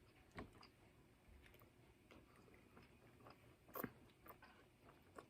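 Near silence: room tone with a few faint soft clicks, the loudest near the start and about four seconds in.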